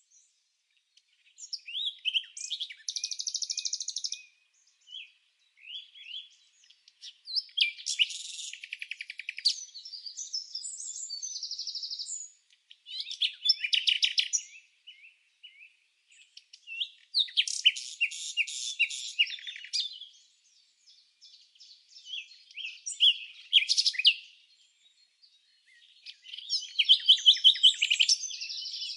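Songbird chirping in phrases of rapid chirps and trills, each lasting a second or few, with short pauses between them and no other background sound.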